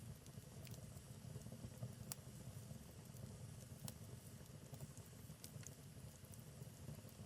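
Wood fire crackling faintly, with a steady low rumble of flame and a few sharp pops from the burning logs, about one every second or two.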